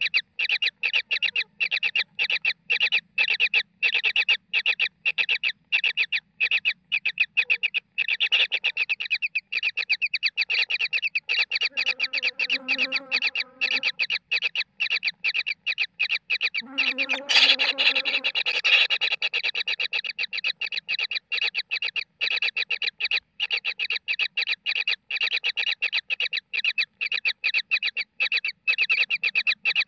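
Kingfisher chicks giving short begging calls in a rapid, even series of about three to four a second, which swells into a louder stretch of calling just past the middle.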